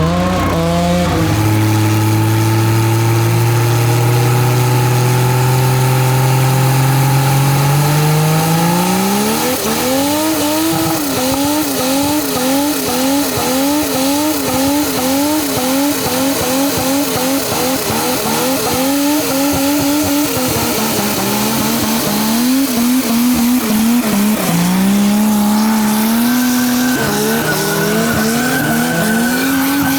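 Turbocharged RB20E straight-six of an R32 Skyline under hard throttle while drifting, with tyres squealing. The engine note climbs steadily over the first nine seconds, then wavers rapidly up and down for about ten seconds, drops, and goes on rising and falling.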